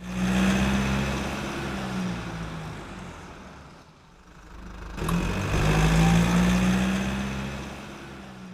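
A car engine running, heard as two swells: loud at the start and fading away over about four seconds, then rising again about five seconds in and fading once more.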